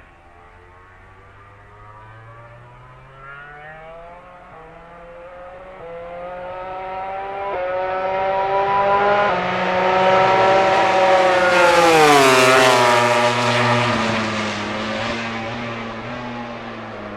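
A MotoGP racing motorcycle approaching at full throttle, its engine pitch climbing and breaking at several upshifts. It passes close by about twelve seconds in with a sharp drop in pitch, then fades away.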